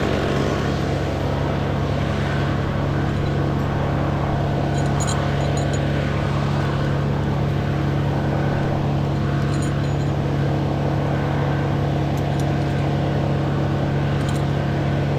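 An engine running steadily at a constant low speed, with an even hum that holds one pitch.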